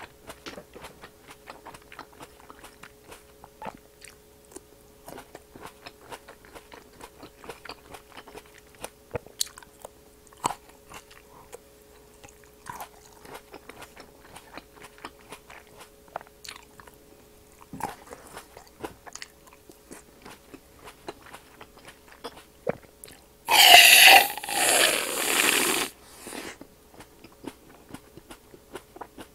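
Close-miked chewing and crunching of green grapes, with many small wet clicks and crackles. About 23 seconds in, an aerosol can of whipped cream sprays with a loud sputtering hiss for about two and a half seconds.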